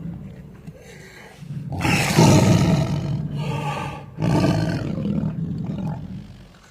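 Big cat roaring in three deep calls: the longest and loudest about two seconds in, then two shorter ones.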